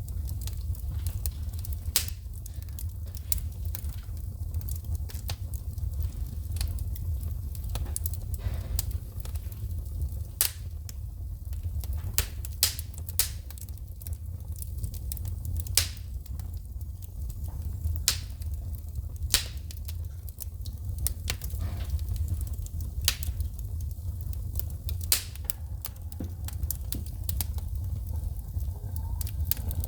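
Wood fire crackling, with sharp, irregular pops and snaps of sparks shooting from the burning logs, several every second, over a low steady rumble.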